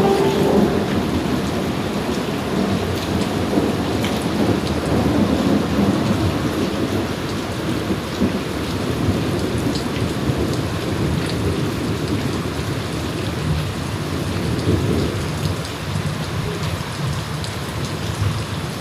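Heavy rain pouring down steadily, with thunder rumbling low beneath it.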